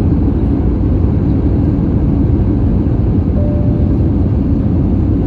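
Steady low rumble inside the cabin of an Airbus A320, with a brief faint tone about three and a half seconds in.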